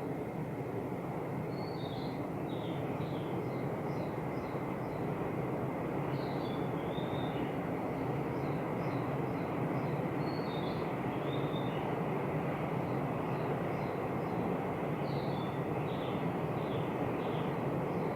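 A distant train running as a steady rumble that swells slightly about a quarter of the way in. Over it, a songbird repeats a short high chirping phrase about every four or five seconds.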